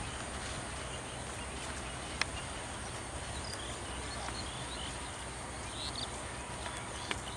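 Birds chirping a few times in the middle, over a steady low outdoor rumble, with a couple of sharp clicks.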